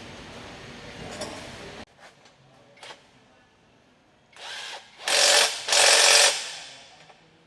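A power tool run in short bursts: a brief one in the second half, then two louder ones of about half a second each.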